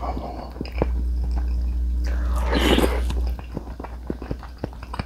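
Close-miked chewing of food, with many small wet mouth clicks and crunches. A louder breathy whoosh comes about two and a half seconds in.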